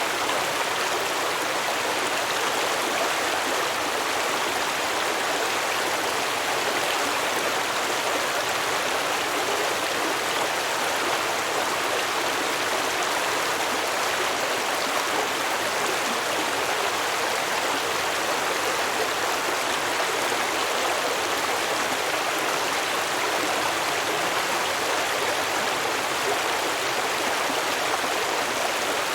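A small stream running steadily over rocks, an even babbling and rushing of water.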